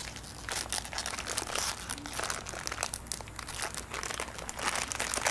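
Blind-bag wrapper crinkling and crackling irregularly as hands grip and tug at it, trying to get it open without finding the tear strip.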